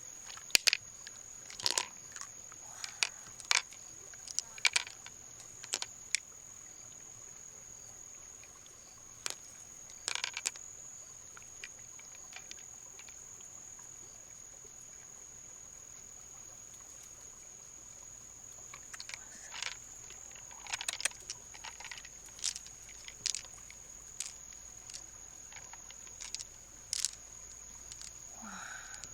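Freshwater mussel shells being handled and opened: clusters of sharp clicks and knocks, heard over a steady high-pitched whine.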